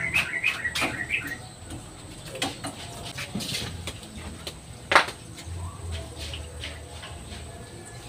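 A bird chirping in a quick run of short notes for about the first second, then scattered clicks and knocks, with one sharp knock about five seconds in.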